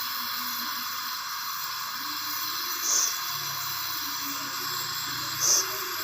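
Steady hiss of aluminium welding on a cracked aluminium engine casing, with two short, sharper blips about three and five and a half seconds in.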